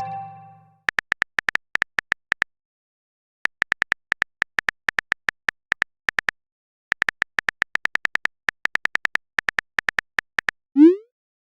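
Phone keyboard typing sound effect: rapid, even ticks, about six a second, in three runs with short pauses between, as a chat message is typed out. The last of a message-notification chime fades out at the start.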